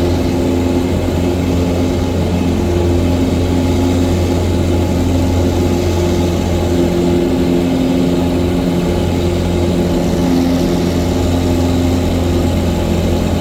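Cessna 177 Cardinal's single piston engine and propeller running steadily: a continuous low drone.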